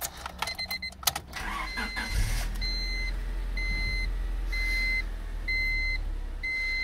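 Ignition clicks, then a 1997 Honda Civic DX's four-cylinder engine cranks briefly and starts about two seconds in, settling into a steady idle. A dashboard warning chime beeps about once a second.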